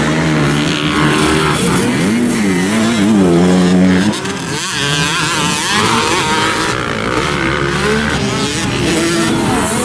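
Several motocross dirt bike engines revving on the track, their pitch rising and falling as the throttles open and close. The nearest bike is loudest about three to four seconds in, then cuts back sharply.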